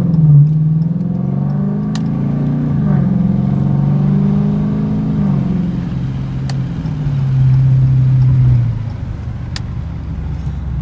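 2016 Dodge Challenger R/T's 5.7-litre HEMI V8 through a near-straight-piped exhaust (mid-muffler and resonator deleted), heard from inside the cabin as the car accelerates. The note climbs and drops back as it shifts up, then goes quieter near the end as the throttle is lifted.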